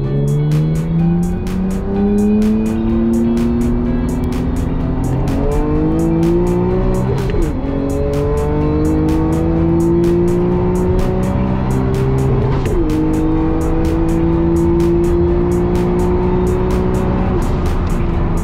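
A car engine accelerating hard through the gears, its pitch climbing steadily and dropping at upshifts about 7, 13 and 17 seconds in, with music in the background.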